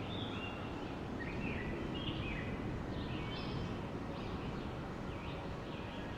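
Steady wind, an even low rush, with birds chirping over it in short, high notes that slide up and down in pitch.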